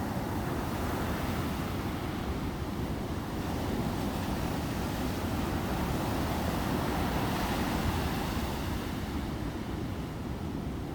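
Sea waves breaking and washing up on a beach: a continuous surf noise that swells about halfway through and eases toward the end.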